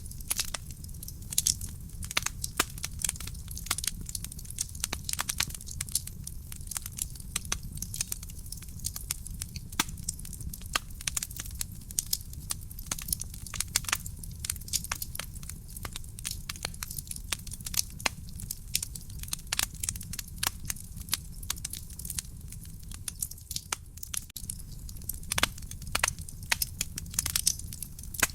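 Wood fire burning in a fireplace: dense, irregular crackling and popping of burning logs over a low, steady rumble of the flames.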